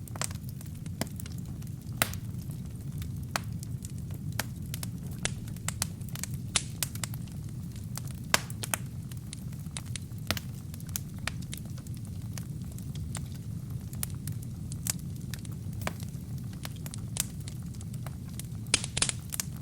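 Wood and kindling fire burning in a fireplace: a steady low rumble of flame under irregular sharp crackles and pops, with a quick cluster of pops near the end.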